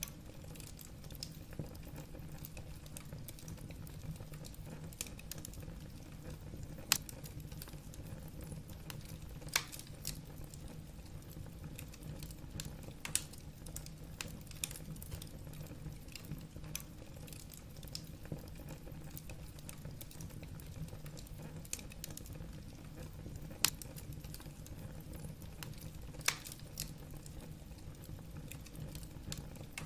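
Wood fire burning in a fireplace: a steady low rumble of flames with a constant light crackle and a handful of sharper pops from the burning logs.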